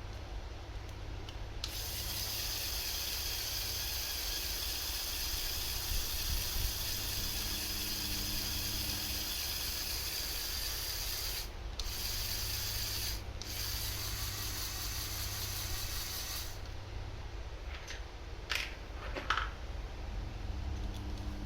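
A steady hiss that starts after about a second and a half, drops out briefly twice, and cuts off after about fifteen seconds, followed by a few short scrapes or clicks, over a constant low hum.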